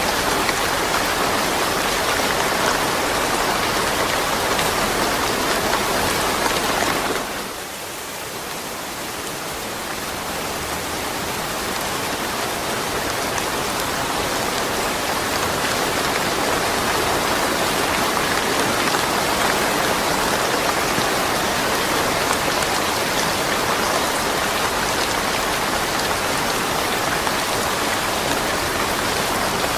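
Steady heavy rain falling on surfaces, a dense even hiss. About seven seconds in it suddenly drops away, then swells back to full strength over the next several seconds.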